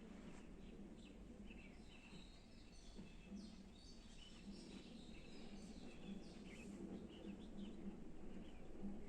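Faint birdsong: many short, high chirps and calls from small birds, over a low steady background hum.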